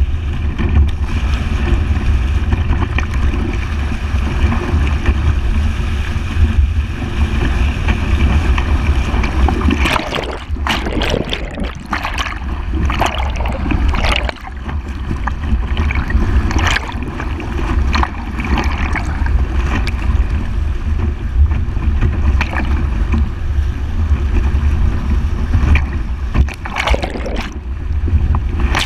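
Toyota FJ Cruiser fording a river: a steady low drone from the vehicle under the rush of water against the body, with a run of loud splashes about a third of the way in and another splash near the end.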